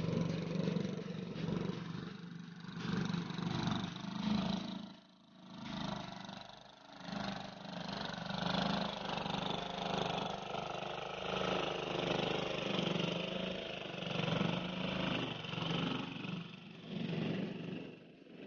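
Hand tractor engine running steadily, its level rising and falling every few seconds as it works.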